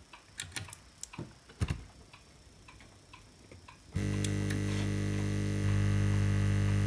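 Lukey 852D+ hot air rework station switched on: a few light clicks, then about four seconds in its air pump starts with a steady hum, which steps a little louder shortly after. The newly fitted hot air gun is running, a sign the repair works.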